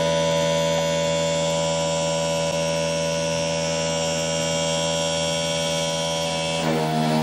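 Roland PNC-2300A CNC engraver running: a steady motor hum-whine with many overtones, whose tone changes shortly before the end.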